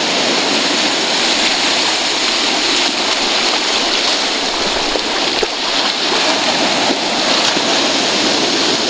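Ocean surf washing onto a beach: a steady, even rush of water.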